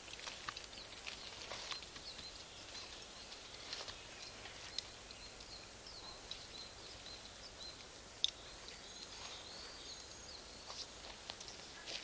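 Campfire of Iwate cut charcoal and firewood crackling quietly, with sharp single pops of the charcoal bursting every few seconds.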